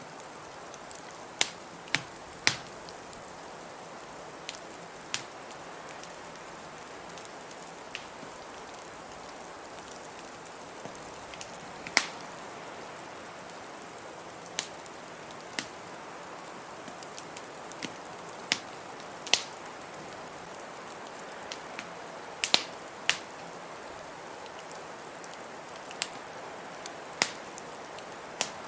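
Wood fire in a fireplace crackling, with about twenty sharp pops at irregular intervals, the loudest about twelve seconds in, over a steady hiss of blizzard wind.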